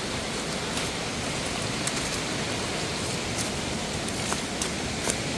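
Steady rush of water cascading over rocks in a mountain waterfall or stream, with a few sharp ticks through it.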